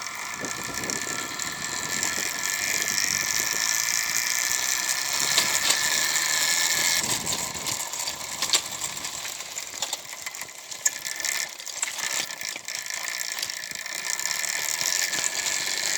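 Electric minibike's brushed DC motor and chain drive running, a steady whirring with chain rattle and clicks, growing louder, easing off about halfway through, then picking up again.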